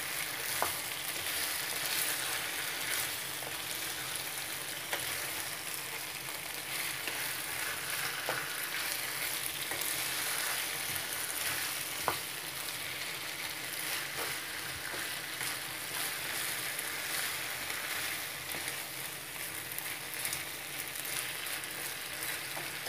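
Chicken, bell peppers and baby corn sizzling in oil in a frying pan as a wooden spatula stirs them, a steady hiss with a few light knocks of the spatula against the pan.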